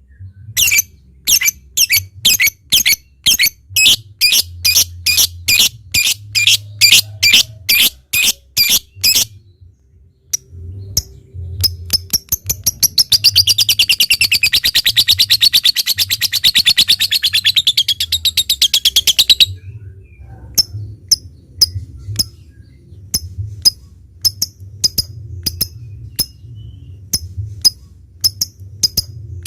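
Lovebird calling: sharp shrill chirps about two a second, then quicker ticking calls ("ngetik") that run into a long unbroken chattering trill ("ngekek panjang") of about six seconds. The trill stops suddenly and the spaced chirps start again.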